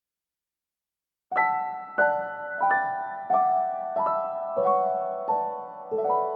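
Gentle piano music: silent for about the first second, then slow struck notes and chords, each ringing and fading, about one every two-thirds of a second.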